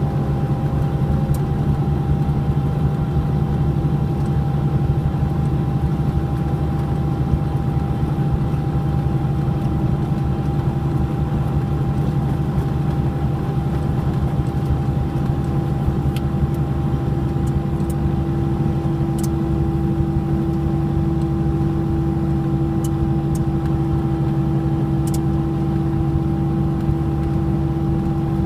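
Cessna 421's twin geared, turbocharged Continental piston engines running with a steady drone.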